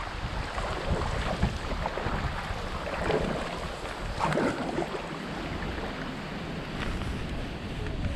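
Wind buffeting the microphone over water noise as a kayak moves along the river.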